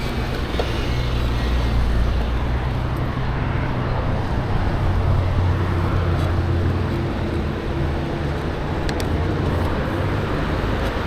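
Steady rushing road noise with a low rumble, as heard while riding a bicycle along the trail.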